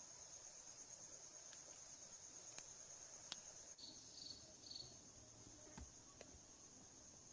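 Faint, steady high-pitched drone of insects trilling, with a few sharp clicks and three short chirps about halfway through.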